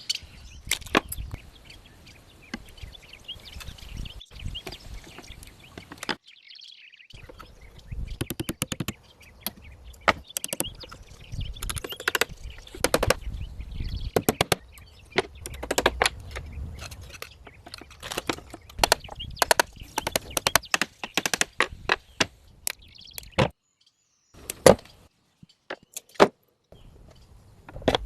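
Bamboo being cut and worked by hand: irregular sharp knocks, clicks and chops, broken by a few brief silences.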